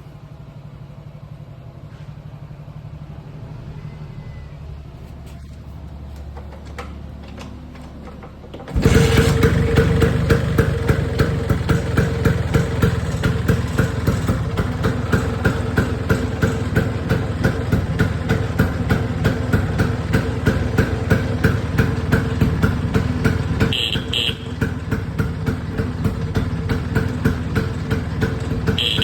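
A 1973 Vespa Sprint's two-stroke single-cylinder engine starting after a year unused: after a quiet low hum, it fires suddenly about nine seconds in and settles into an idle with a regular pulsing beat. Short high tones sound twice near the end.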